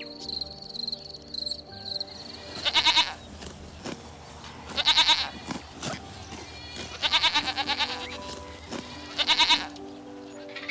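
A bleating farm animal calling four times, each call about half a second to a second long with a wavering, quavering pitch, over soft background music.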